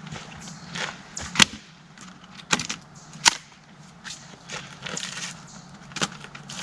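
Four sharp cracks or knocks, the loudest about a second and a half in, among softer rustling and handling noise, over a steady low hum.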